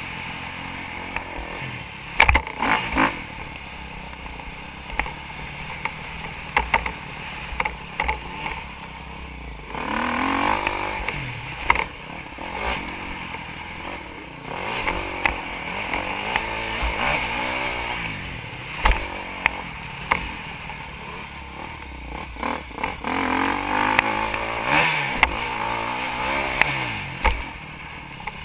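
Motocross dirt bike engine revving up and falling back again and again, with frequent sharp knocks and clatter throughout.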